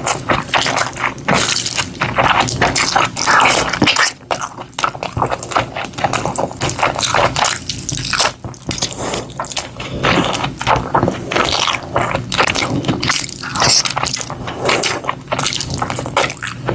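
Close-miked eating sounds: a dense run of wet chewing, smacking and squishing clicks.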